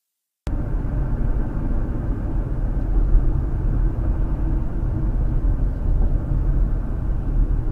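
A car driving: steady low rumble of engine and road noise that starts abruptly about half a second in.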